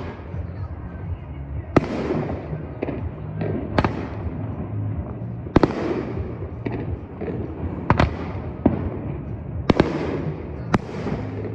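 Fireworks exploding: a rapid series of sharp bangs, several followed by crackling, over a steady low rumble.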